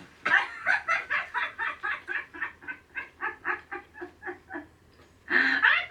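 High-pitched cackling laughter: a long run of quick "ha" pulses, about five a second, trailing off, with a louder burst near the end.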